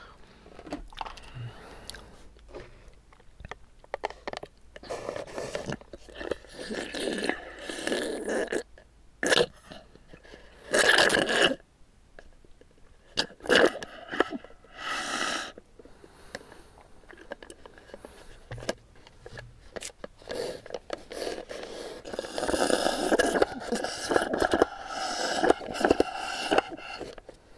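Close-miked eating sounds of bubble tea: irregular sucking bursts through a straw and chewing of tapioca pearls, with small clicks and scrapes. The loudest bursts come about eleven seconds in and again near the end.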